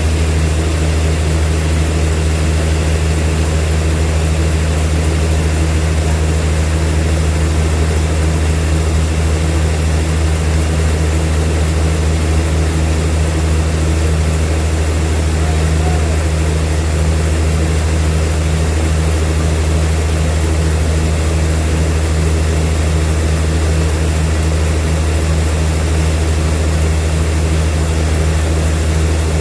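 Heavy sawmill machinery running with a steady, unchanging low hum.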